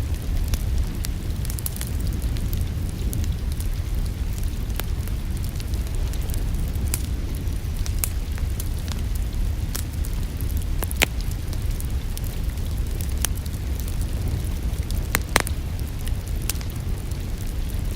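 Wood fire crackling with frequent sharp pops over a steady low rumble. Two louder pops stand out, one about eleven seconds in and another about fifteen.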